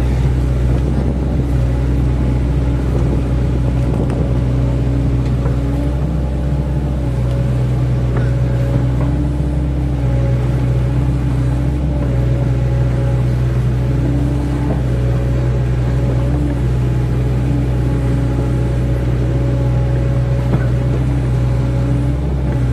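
Excavator's diesel engine running steadily, with a higher tone above it that comes and goes every second or two as the machine works.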